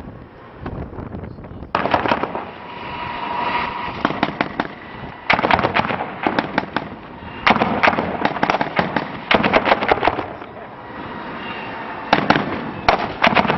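Bursts of automatic weapons fire: about five strings of rapid shots with short pauses between them.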